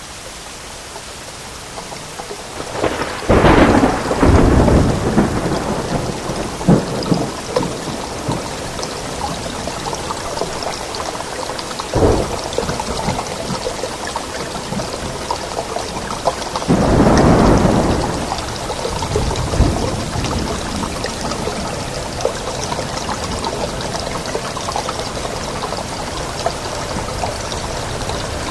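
Steady rain in a thunderstorm, fading up over the first few seconds. A loud thunderclap rolls for about two seconds starting around three seconds in, a sharp crack comes around twelve seconds, and another rumble of thunder swells around seventeen seconds.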